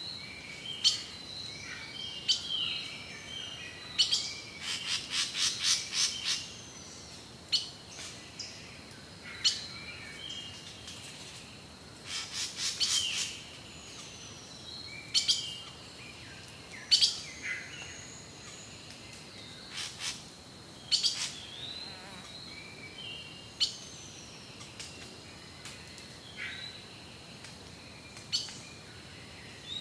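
Rainforest birds calling: many sharp chirps and short whistled slurs from several birds, with a quick run of repeated notes about five seconds in and another around twelve seconds. A faint steady high-pitched hum, typical of insects, runs underneath.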